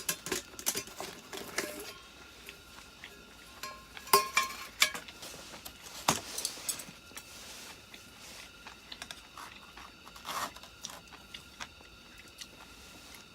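Metal utensils clinking and scraping against stainless camp cookware: scattered clicks and knocks, with one short ringing clink about four seconds in.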